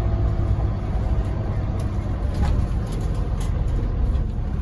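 Scania OmniLink articulated city bus heard from inside while riding: steady low engine and road rumble, with a few faint clicks partway through.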